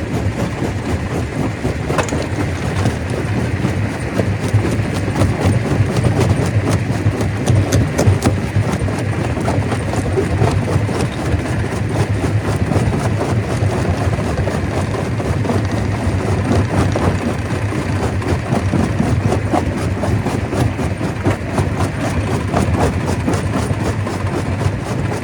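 Stone crusher running under load, with a steady heavy rumble and a dense, irregular clatter of rock knocking and cracking as it is crushed.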